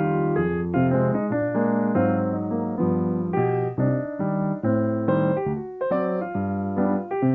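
Solo piano playing chords and a melody, with notes changing several times a second.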